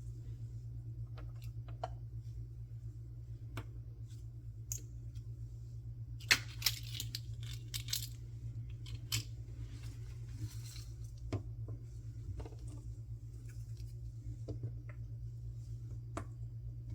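Hands unboxing small toys: scattered light clicks and taps of plastic being handled, with a short burst of packaging crinkling and tearing about six to eight seconds in. A steady low hum runs underneath.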